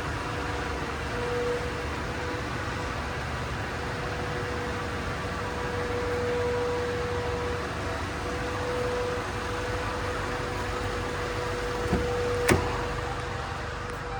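2018 Jaguar XE 2.0-litre engine idling steadily, with a constant hum. Two sharp clicks near the end.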